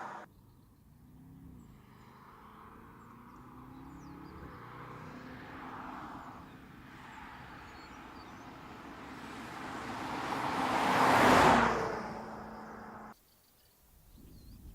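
A BMW 6 Series Gran Coupe driving by: the engine note grows steadily as the car approaches, is loudest about eleven seconds in as it passes close, then cuts off abruptly.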